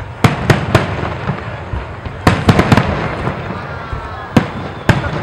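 Fireworks display going off: sharp bangs of bursting shells over a continuous rumble. Three bangs come in quick succession near the start, a cluster of four about two seconds in, and two more later on.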